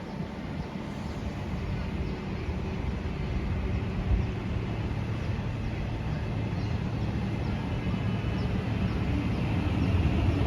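SMRT C151 metro train pulling away, a low steady rumble that grows slowly louder, with one sharp knock about four seconds in. Near the end a rising electric whine from the traction motors begins as the train gathers speed.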